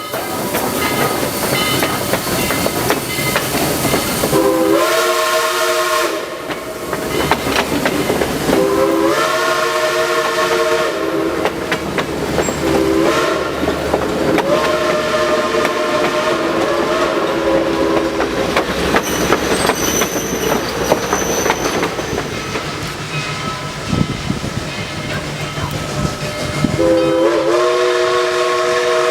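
Southern Railway 2-8-2 steam locomotive 4501's chime whistle blowing long, long, short, long, the grade-crossing signal, over the rumble and rail clatter of the moving train, with another long blast near the end.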